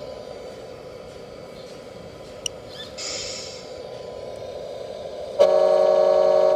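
Horn of a 1/14-scale RC truck's sound unit giving one steady toot of about a second near the end. Before it there is a faint steady hum, a click, and a short hiss about three seconds in.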